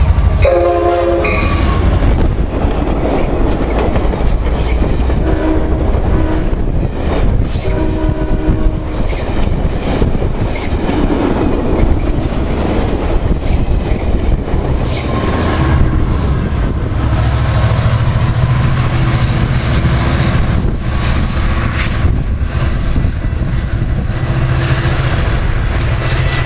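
Amtrak Pacific Surfliner passenger train passing at speed, led by an F59PHI diesel locomotive: its horn sounds a short chord about a second in and briefly again around six and eight seconds in. The Amfleet coaches then roll by with steady rail rumble and wheel clatter, and a steady low engine drone comes in during the second half.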